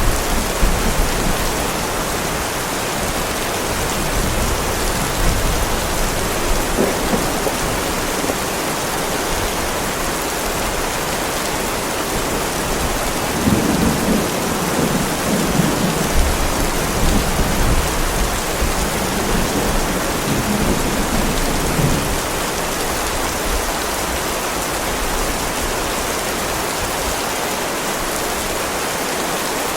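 Heavy rain pouring steadily onto a driveway, with low thunder rumbling through the middle.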